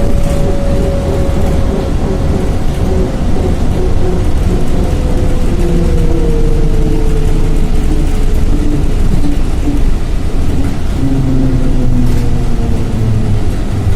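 Trolleybus ride heard from inside the cabin: a loud, steady low rumble from the running gear and road, with an electric traction-drive whine that falls slowly in pitch as the trolleybus slows.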